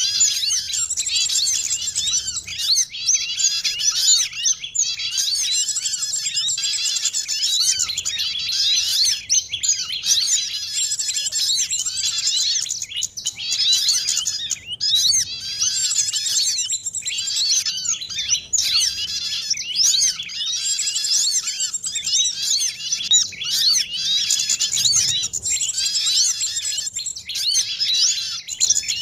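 A dense chorus of many small songbirds chirping and twittering at once: quick overlapping high chirps and short rising and falling whistles with no let-up. It is a layered bird-lure recording made to draw small birds in.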